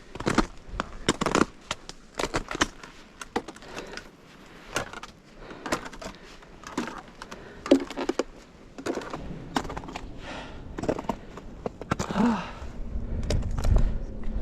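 Hiking boots crunching on hard-frozen snow: a run of uneven footsteps, about two crisp crunches a second, with wind rising near the end.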